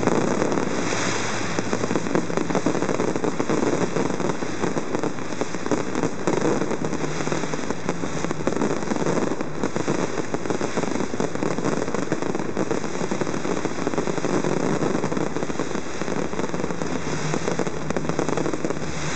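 Fireworks going off in a dense, unbroken barrage of crackling pops, many small reports packed closely together.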